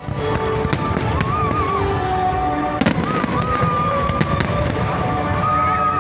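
Fireworks going off: a continuous low rumble of bursts with sharp bangs, the loudest about three seconds in. Music plays over the fireworks.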